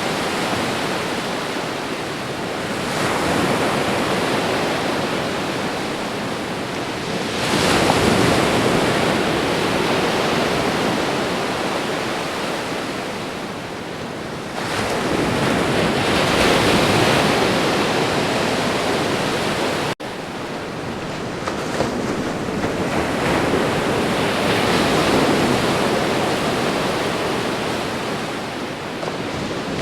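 Ocean surf: waves breaking and washing in, swelling to a peak every several seconds and ebbing between, with a momentary cut in the sound about two-thirds of the way through.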